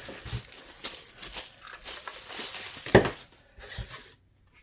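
Plastic packaging crinkling and rustling as it is handled, with a loud sharp knock about three seconds in.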